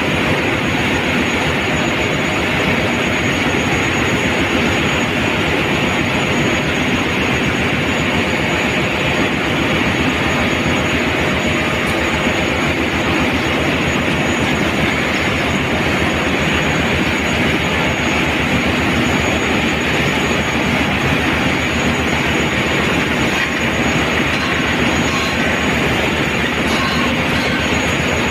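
Steady, loud machinery din of a ship's engine room, with a thin high whine held throughout.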